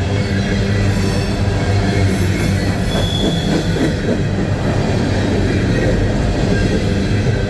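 Empty coal hopper cars of a long freight train rolling past slowly, with wheels squealing on curved track over a steady low drone. A brief high squeal comes about three seconds in.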